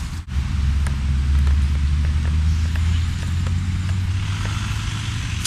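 Skateboard wheels rolling over street pavement: a steady low rumble with faint clicks.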